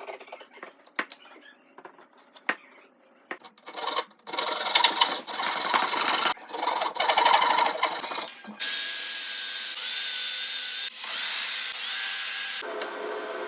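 Woodworking hand- and power-tool sounds in quick succession. First a few light taps and clicks. Then several seconds of rough scraping strokes, like filing or rubbing on wood. Then a small power tool whirs, its pitch sweeping up several times as it is run up.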